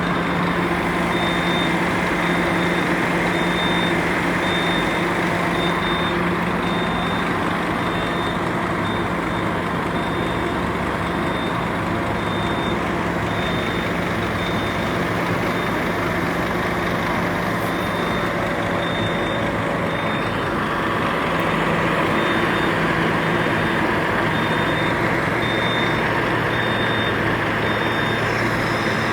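Heavy diesel engine running steadily, with a high reversing-alarm beep repeating about once a second.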